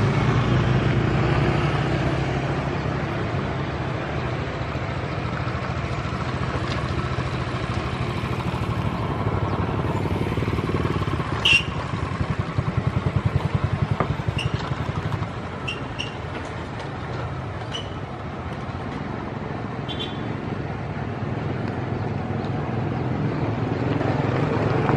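A passenger train's coaches rolling away along the track, a steady low rumble. A quick, even clatter rises about halfway through and dies down a few seconds later, and a few short high chirps sound over it.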